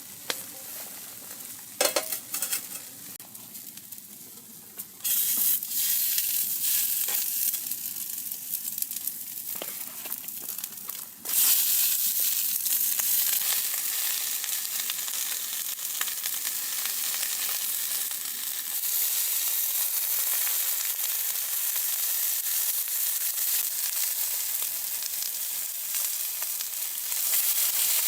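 Food sizzling in a hot pan, with a few utensil clicks at first. The sizzle starts about five seconds in and jumps much louder about eleven seconds in, then stays steady.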